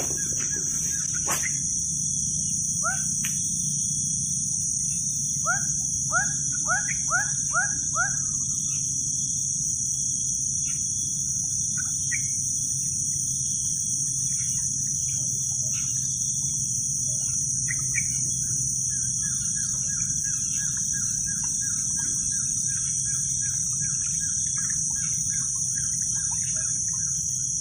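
Birds chirping outdoors: a quick series of about six chirps a few seconds in, scattered single calls, and a fast run of short notes in the second half, over a steady high-pitched insect drone and a low rumble.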